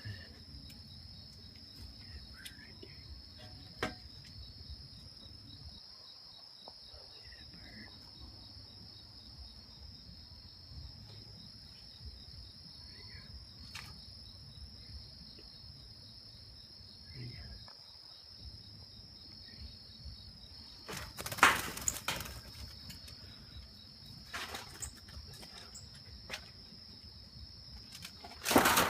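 Insects chirping in a steady, high, pulsing trill throughout, with a few louder scuffs and knocks about three-quarters of the way through and again near the end.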